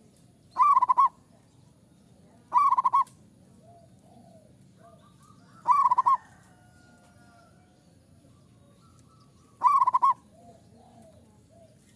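Zebra dove (perkutut) cooing: four loud, short trilled coos spaced a few seconds apart, with fainter, softer coos between them.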